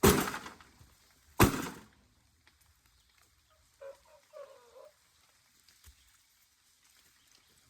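Two heavy blows on a scrapped microwave's metal casing, about a second and a half apart, each ringing briefly. A faint short call, like a bird's, sounds about four seconds in.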